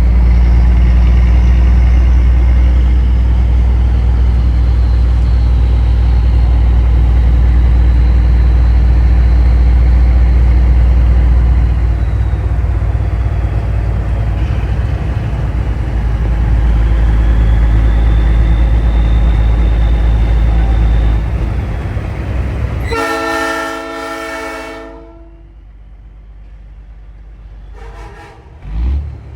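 Steady low engine and road rumble inside a big rig's cab while driving. Near the end, a Nathan Airchime P3 train horn sounds one chord blast of about two seconds, followed by a brief second blip.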